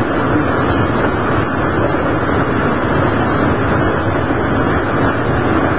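Steady running noise heard inside a diesel railcar under way: an even drone and rumble of engine and wheels on the rails.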